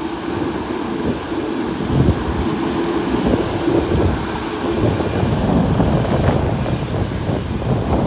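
Jet airliner engines rumbling as the plane passes, with a steady drone for about the first five seconds. Wind buffets the microphone.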